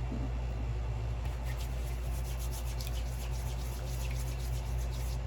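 Hands rubbing hair oil into short, close-cropped hair and scalp: a soft, uneven rubbing noise over a steady low hum.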